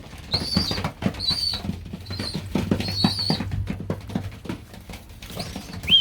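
Young racing pigeons being hand-fed grain: a run of short, high, thin calls repeated about every half-second to second, over many small clicks and taps of pecking and scrabbling.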